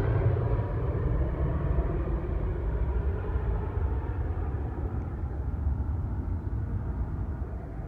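Jet engine noise of a departing Boeing 737 MAX 8 (CFM LEAP-1B engines) fading steadily as the aircraft climbs away, the hiss thinning out until only a low rumble remains.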